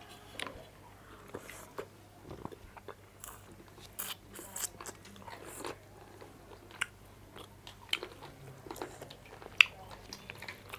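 Close-miked mouth sounds of a person eating rice and spicy meat curry: chewing with irregular wet smacks and clicks of the lips and tongue, a few of them louder.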